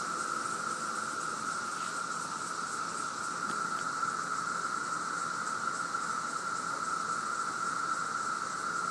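Chorus of many periodical cicadas from the 2013 Brood II emergence, a steady unbroken high drone with no rise or fall.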